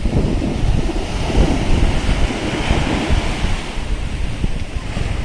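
Sea of Azov waves breaking and washing onto the shore, a continuous surf noise that swells about two seconds in. Wind buffets the microphone, adding a heavy low rumble.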